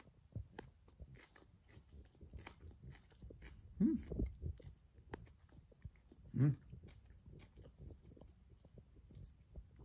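A person chewing a raw green Thai chili pepper with the mouth closed: many small wet, crunchy clicks. Two short rising vocal sounds come from the throat, about four seconds and six and a half seconds in.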